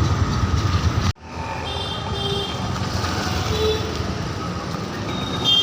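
Steady low vehicle rumble that cuts off abruptly about a second in, followed by quieter steady traffic-like background noise with a few faint tones.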